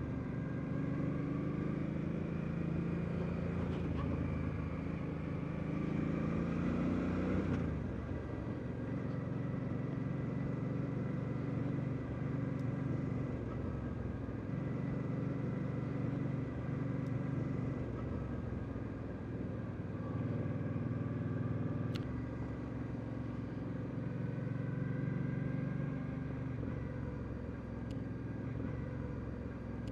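Suzuki Boulevard C50T cruiser's V-twin engine running steadily while riding, with a change in engine note about eight seconds in.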